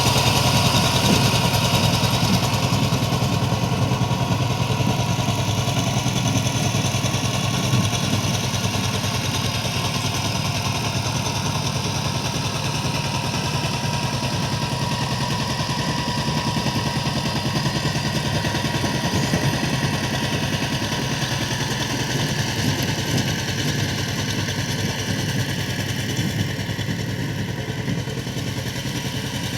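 Power tiller engine running steadily with a fast, even chugging beat, growing slightly quieter toward the end.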